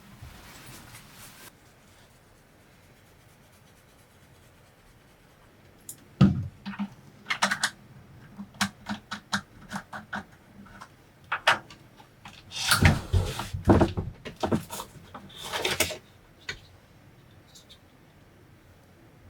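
Objects being handled at close range: a run of irregular clicks and knocks with short rustling stretches, starting about six seconds in and stopping about sixteen seconds in.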